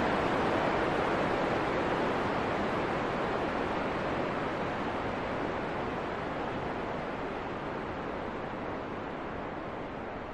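Wind blowing: a steady rushing noise that slowly dies down.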